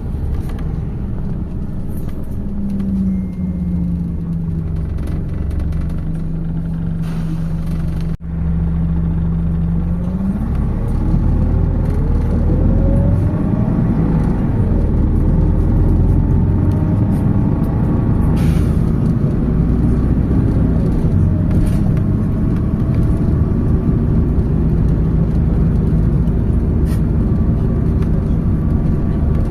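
MAZ 206 city bus heard from inside, its engine running at a steady note for the first ten seconds. About ten seconds in the bus speeds up, the engine note rising, and then it runs on at speed with road noise.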